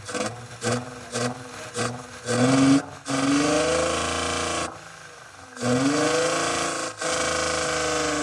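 Hyundai Tiburon engine being revved: a few quick throttle blips, then held at full throttle twice, the pitch climbing and then stalling at a ceiling it won't rev past, with a dip between the two pulls. The engine is misfiring and down on power.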